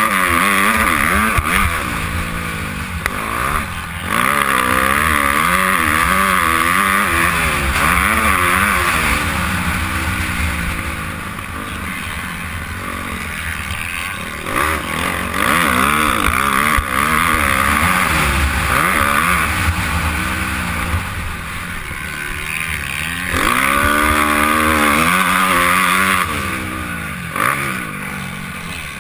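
Honda CRF250R four-stroke single-cylinder motocross engine revving hard and backing off again and again, its pitch climbing and falling through the gears, with wind rumble on the helmet microphone.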